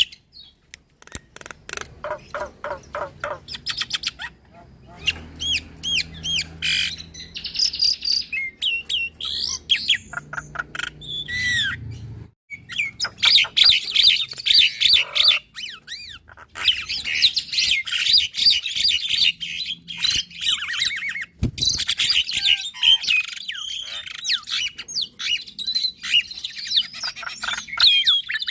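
Javan myna and black-winged myna singing together in a long, busy duet: rapid clicks, whistled rising and falling notes and harsh squawky chatter, with a brief pause about twelve seconds in.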